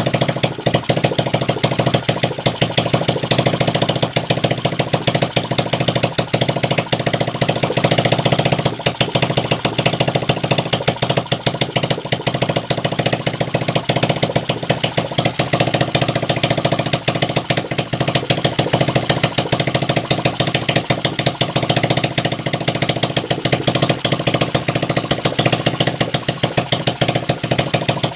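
Kawasaki Aura Classic 110 motorcycle engine, run in its bare chassis, idling steadily with a rapid, even pulse.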